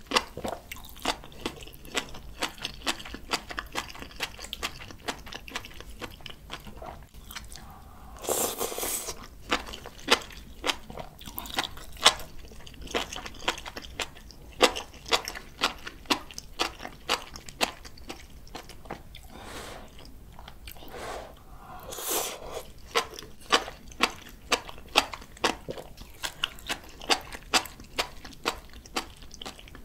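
Close-miked chewing and crunching of bibimbap mixed with raw radish salad and spring cabbage geotjeori: a quick run of sharp crunches, several a second. About eight seconds in and again about twenty-two seconds in come longer, softer swells of noise.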